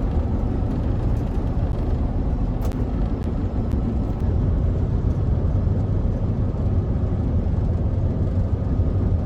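Hino Profia heavy truck running, a steady low drone with a faint steady whine above it; the truck's transmission has a gear whine in sixth and seventh gear.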